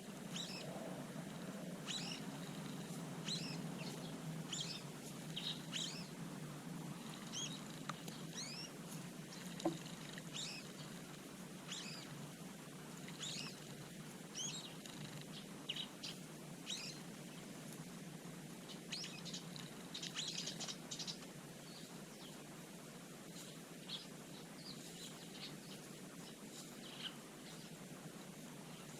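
Small garden birds chirping, many short high chirps in irregular bursts, with a steady low hum underneath. A single sharp click just under ten seconds in.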